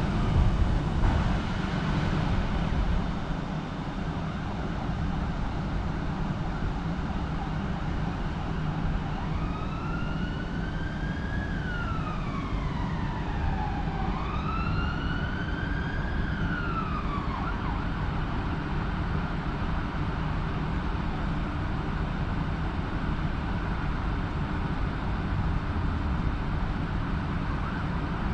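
Emergency vehicle siren in wail mode, two slow rising-and-falling sweeps in the middle, over a steady low rumble.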